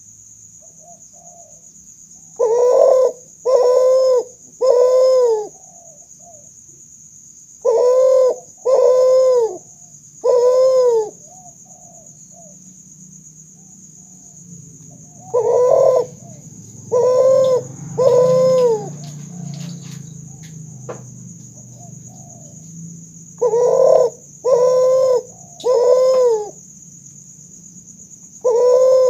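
Kuter, a hybrid of spotted dove (tekukur) and Barbary dove (puter), cooing. It gives phrases of three loud, deep coos, repeated four times with pauses of a few seconds between phrases.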